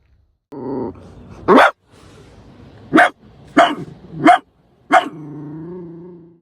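A dog barking: five sharp, loud barks spread unevenly over about three and a half seconds, followed by a softer, drawn-out pitched sound.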